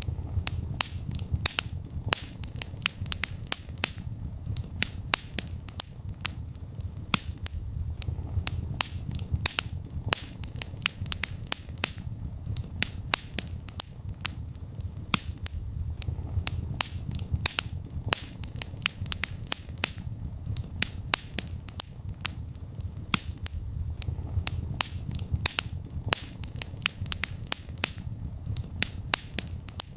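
Wood fire burning in a fireplace: frequent sharp, irregular crackles and pops over a low, steady rumble of the flames.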